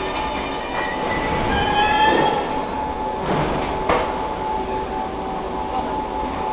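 Metro work train led by a TMA locomotive, running on the rails with a steady whine. A higher whine rises about two seconds in, and two sharp knocks from the wheels on the track come near the middle.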